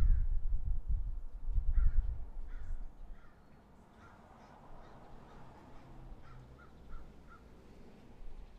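A bird calling: three short calls about two seconds in, then a quick run of four short calls near the end. A low rumble runs under the first three seconds.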